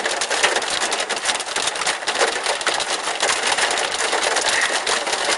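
Pea-size hail coming down hard, a dense and continuous rattle of small hard impacts.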